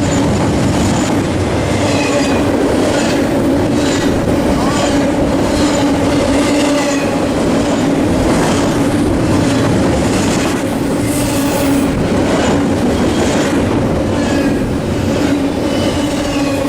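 Freight train cars rolling past at speed: a steady loud rumble and hum, wheels clacking regularly over rail joints, and brief thin wheel squeals.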